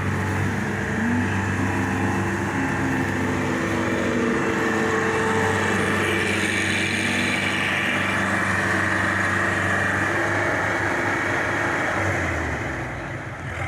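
Mahindra 475 DI tractor's diesel engine running steadily, its note holding level and easing off slightly near the end.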